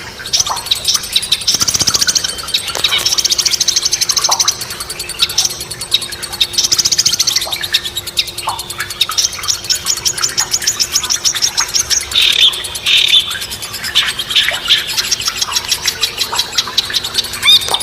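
Songbirds singing: a steady run of high, fast chattering trills and sharp chirps, phrase after phrase.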